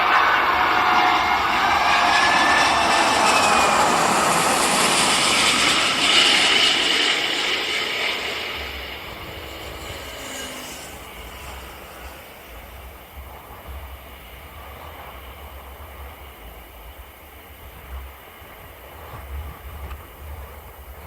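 Qantas Airbus A380's four jet engines as the airliner passes close by: loud jet noise with whining tones that drop in pitch during the first few seconds, fading away after about eight seconds. Wind buffets the microphone afterwards.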